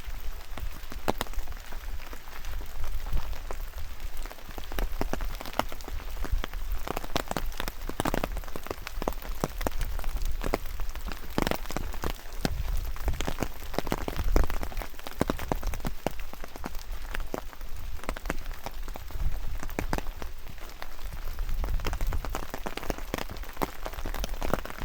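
Steady rain with many close, irregular drops tapping, over a low rumble.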